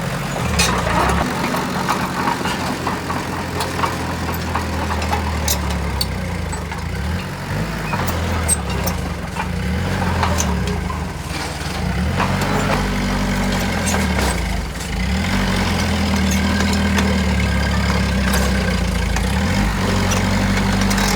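Heavy diesel engine of earthmoving machinery running steadily, its note shifting up and down several times, with occasional short clanks.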